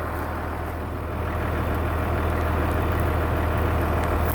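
Tractor engine idling steadily, with a low hum that grows a little louder about a second in.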